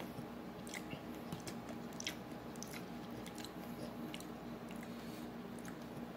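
A man chewing a mouthful of taco with his mouth closed, close to the microphone: soft, wet mouth clicks and smacks scattered through.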